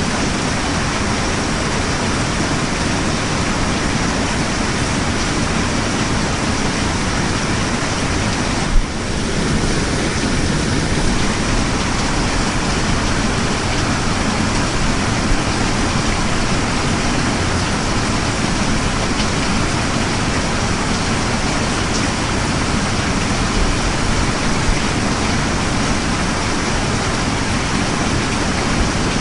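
Steady heavy rain, an even dense hiss with no change in level. About nine seconds in there is a single brief click, followed by a short dip in the rain.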